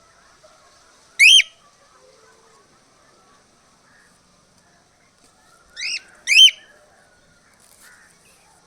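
Cockatiel giving short, loud rising whistled calls: one about a second in, then two in quick succession about six seconds in, over faint chatter.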